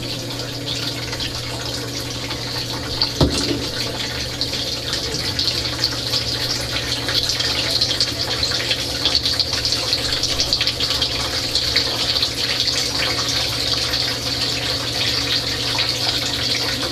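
Dishwasher running, heard from inside the wash chamber: water spraying and splashing over the racks with a steady low hum from the wash pump. A single knock about three seconds in.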